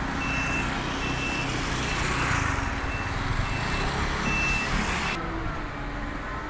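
A heavy vehicle's reversing alarm beeps at one high pitch, about once every 0.8 seconds, over a diesel engine running; the beeping stops about two-thirds of the way through. A hissing noise cuts off suddenly near the end.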